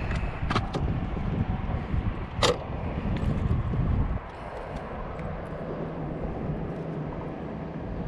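Wind buffeting the microphone out on the water, with a few sharp knocks, the loudest about two and a half seconds in. The buffeting eases about four seconds in, leaving a steadier low hum.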